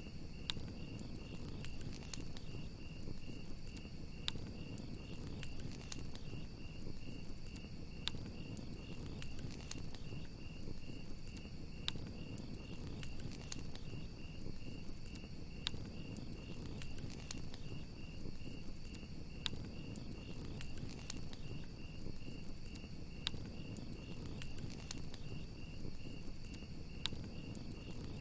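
Crickets chirping in a steady, rapidly pulsing trill over a crackling campfire, with a low rumble and scattered sharp pops from the fire.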